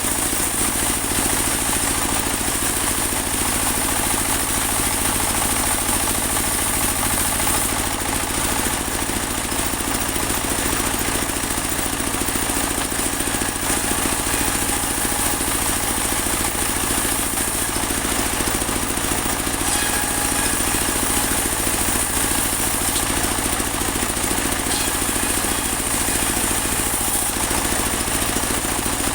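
Engine-driven portable band sawmill running steadily, sawing a large teak log, with a constant high hiss over the engine's rapid pulsing.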